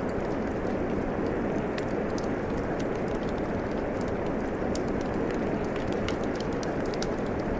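Steady rain falling mixed with a fireplace fire, its wood crackling in frequent small, sharp pops over the even hiss of the rain.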